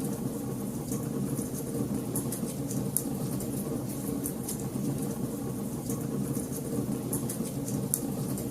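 Fireplace wood fire crackling, with many sharp irregular pops and snaps over a steady low rumble of burning flames.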